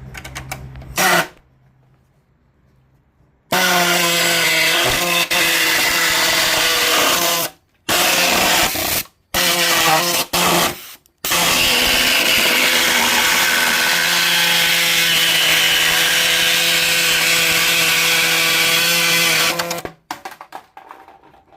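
Handheld electric power tool running at a steady pitch while working the metal of an exhaust manifold heat shield. It starts a few seconds in, stops and restarts three times, then runs steadily until it cuts off near the end.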